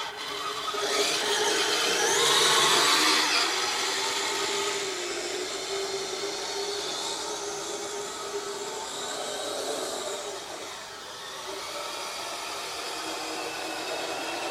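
Kyosho Blizzard radio-controlled snowcat running on its tracks, its electric motor and gearbox whining steadily. It is loudest about two seconds in and drops briefly near eleven seconds.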